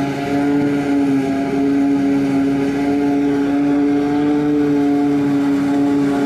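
Engine of heavy farm machinery at a silage harvest, running steadily with a strong, even drone that rises slightly in pitch midway.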